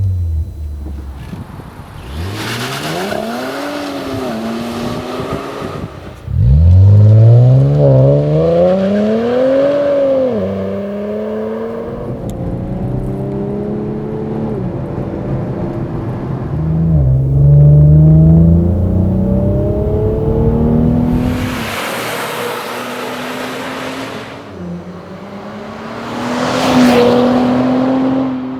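Infiniti Q50 3.0t's twin-turbo V6 through a STILLEN stainless-steel cat-back exhaust, revved twice, the second rev the loudest. It then pulls through the gears, its pitch climbing and dropping back at each shift, with a rush of noise twice near the end.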